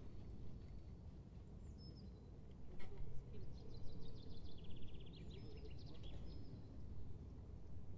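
A songbird sings one trill that runs down the scale and ends in a short, higher flourish, starting a few seconds in. It is set against a steady low rumble of outdoor background noise, with a few single high chirps before it.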